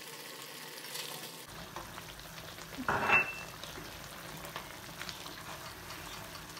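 Chicken frying and sizzling in oil in a karahi over a high gas flame, stirred with a wooden spatula. A brief louder knock comes about three seconds in.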